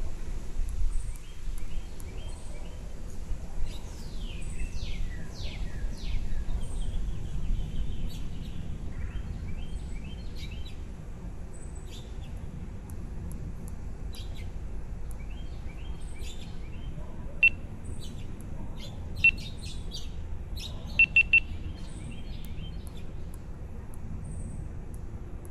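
Baby birds chirping: several falling whistled calls, then many short high chirps with a few sharp, loud cheeps in the second half, three of them in quick succession. A low rumble sits under the first third.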